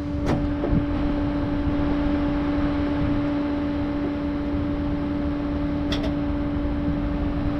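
A running vehicle engine drones steadily with a constant low tone, with a couple of light clicks, one just after the start and one about six seconds in.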